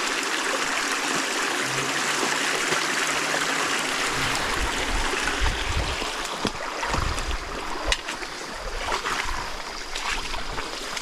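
Small stream flowing over rocks, a steady hiss of running water. A low hum for about two seconds early on, and some low rumbling and a few faint knocks in the second half.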